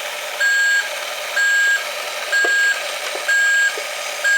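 A vehicle's reversing alarm sounding evenly spaced high-pitched beeps, about one a second, while it backs up, with a few faint knocks between them.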